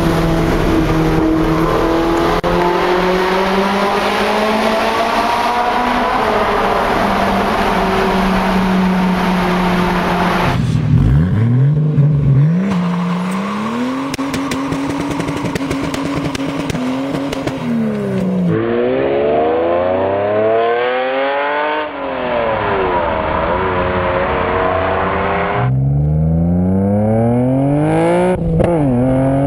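A run of sports-car engines in turn. First a Ferrari 458 Italia's V8 pulling under acceleration, heard from inside the cabin; then a 1991 Toyota Supra revved sharply, held high and let drop back, heard behind the exhaust. Next a Ferrari 512 TR's flat-12 revved up and down, and near the end a Nissan Skyline R34 GT-R's twin-turbo straight-six accelerating, with a gear change, heard at the tailpipe.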